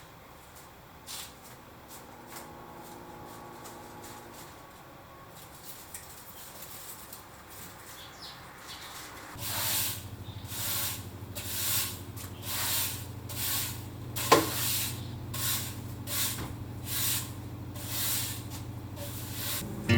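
Broom sweeping a floor in regular strokes, about one a second, starting about halfway through, with a single sharp knock among them.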